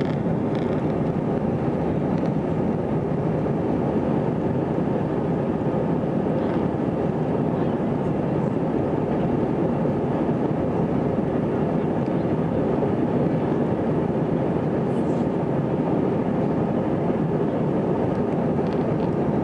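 Airbus A320 jet engines and rushing air heard as a steady, unchanging rumble from inside the cabin.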